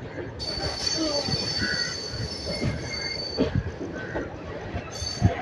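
Passenger train's wheels squealing on the rails as it slows into a terminus: a high, steady squeal starts about half a second in and fades out after about three seconds, over the rumble and knocks of the coaches.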